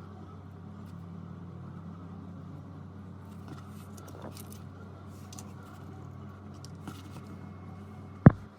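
A steady low mechanical hum from a running repair machine, with faint clicks and taps of handling, and one loud sharp knock near the end, after which the hum stops.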